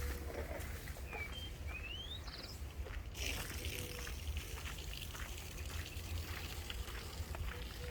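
Footsteps on a path over a steady low rumble. A small bird gives a few short rising chirps about a second in, and a steady hiss sets in about three seconds in.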